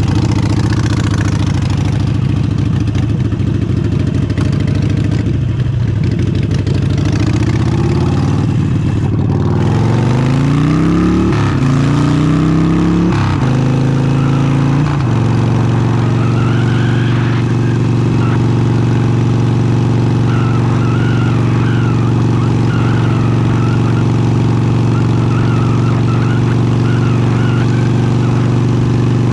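Harley-Davidson Forty-Eight's 1200 cc air-cooled V-twin through an aftermarket exhaust, running steadily at low revs. About a third of the way in it accelerates, pitch rising in several sweeps as it shifts up through the gears. It then settles into a steady cruise.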